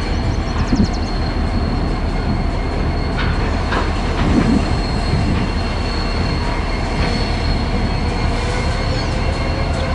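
A train rolling past: a steady rumble of steel wheels on rail, with a thin, steady, high-pitched wheel squeal running over it.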